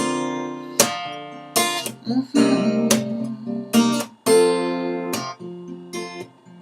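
Acoustic guitar strumming chords, about one strum every three-quarters of a second, each chord ringing out and fading before the next.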